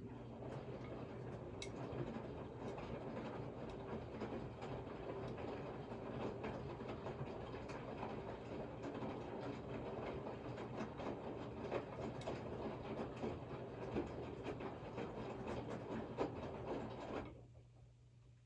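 Washing machine running with a steady rattling, clicking mechanical noise that starts abruptly and stops suddenly near the end.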